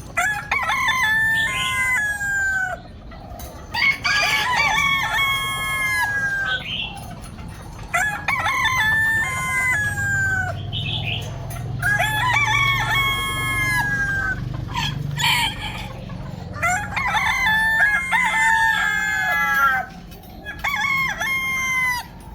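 Roosters crowing repeatedly, about six crows at roughly four-second intervals, with several birds' crows overlapping at different pitches.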